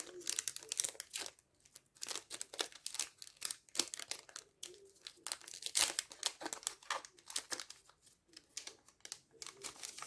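A trading card pack wrapper crinkling and tearing as it is opened by hand, in a run of irregular crackles with the loudest burst about six seconds in.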